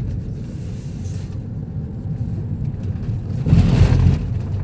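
Car cabin road noise: a steady low rumble from the moving car, with a louder rush for about half a second near the end.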